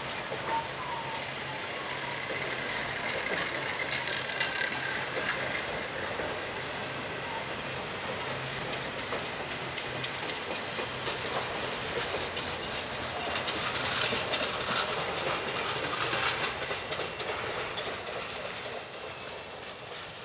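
Ringling Bros. circus train cars rolling past on the rails: a steady wheel rumble with clicking over the rail joints, louder for stretches about four and fifteen seconds in. It fades near the end as the last cars go by.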